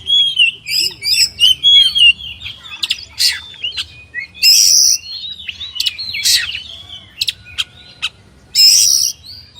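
Oriental magpie-robin (kacer) singing: a quick run of whistled warbling notes, then sharp clicks and loud harsh rasping notes, the harshest twice, about halfway through and near the end.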